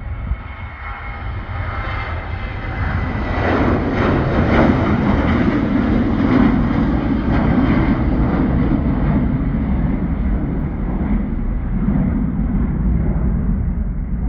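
Jet airliner taking off, its engine noise swelling to a peak a few seconds in and then slowly fading as it climbs away, with a faint falling whine early on.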